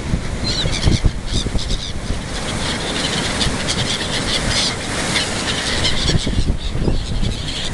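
Many gulls calling over one another as they squabble over thrown bread, short sharp calls coming thick and fast, over a steady low rumble.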